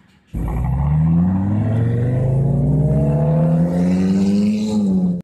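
Sports car engine accelerating, its pitch climbing slowly and steadily over about four seconds. It starts suddenly and is cut off abruptly at the end.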